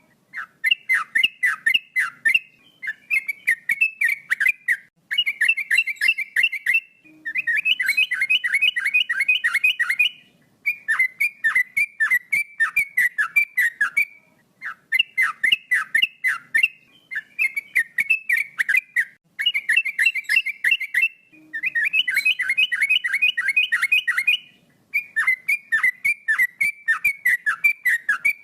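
Male yellow-vented bulbul (trucukan) singing vigorously. It gives phrase after phrase of quick, downward-slurred whistled notes, each phrase lasting two to three seconds, with short pauses between.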